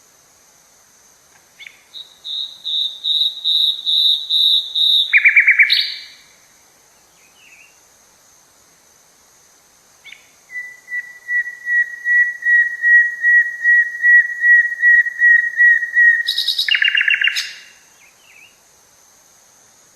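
A forest bird singing two long phrases. Each is a run of evenly repeated notes that grows louder and ends in a short burst of quicker notes. The first phrase is higher-pitched than the second.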